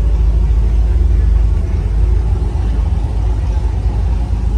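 A vehicle's engine running with a steady low rumble, heard from inside the cab while it rolls slowly in traffic.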